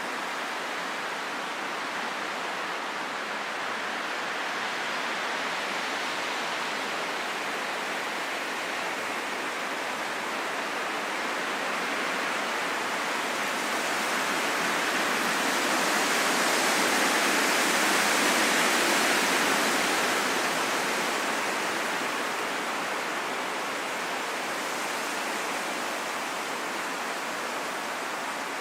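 Wind blowing in a steady rushing hiss that swells into a stronger gust about halfway through, then eases back.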